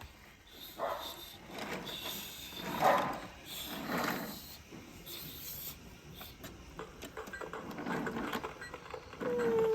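Sound effects from a battery-powered toy vehicle: a series of short sounds about a second apart, then a steady electronic tone starting near the end.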